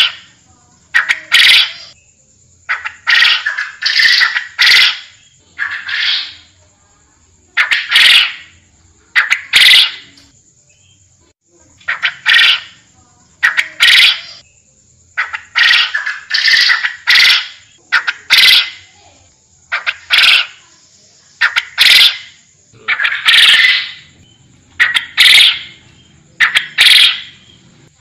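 Forest quail (puyuh hutan) calling over and over: loud, harsh, swelling calls, about one every one to two seconds, some coming in quick pairs.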